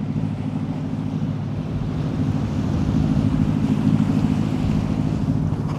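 A boat's engine running steadily under way, with wind and water noise over it.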